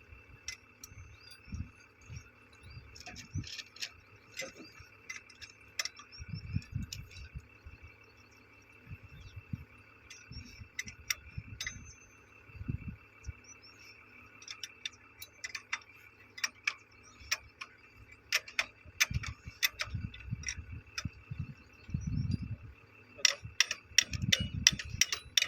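Irregular sharp clicks and light taps, denser near the end, with a few low thumps in between over a faint steady hum.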